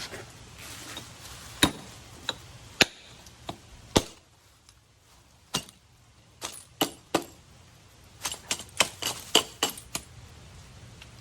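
Sharp metallic snaps of a double-action out-the-front automatic knife, its blade firing out and retracting again and again. There are several single snaps spaced about half a second apart, then a quicker run of them near the end.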